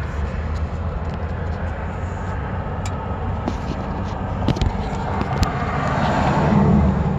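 Vehicle engine idling steadily, heard close up inside the engine bay, with a few light knocks from handling near the engine.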